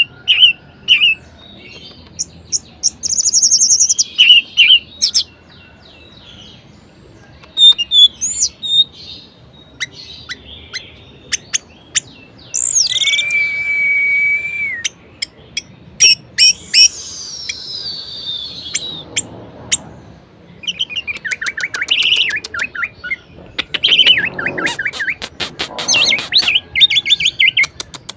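Orange-headed thrush (anis merah) singing a varied, loud song: bursts of chirps and quick trills, a held whistle around the middle followed by a long falling whistle, and fast rattling trills near the end.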